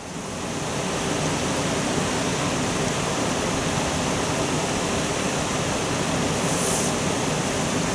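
Steady rushing of water pouring from the overflow at a canal staircase lock, coming in over the first second and then holding even.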